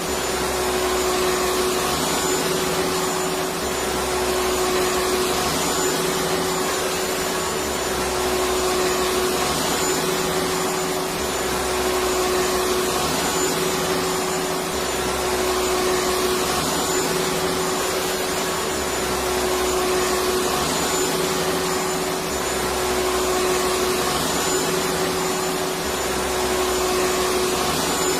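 Electric vacuum cleaner running steadily: an even rushing hiss with a steady motor hum, and a faint low throb that comes and goes every couple of seconds.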